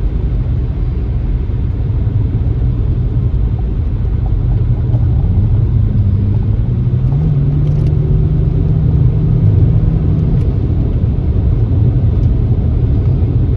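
Car driving along a one-lane country backroad: a steady low rumble of engine and tyres, with the engine note rising about five to seven seconds in and holding until about ten seconds in.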